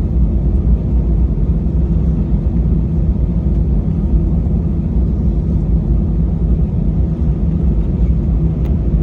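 Steady low rumble heard inside an Airbus A320's cabin, its jet engines running at low power during taxi.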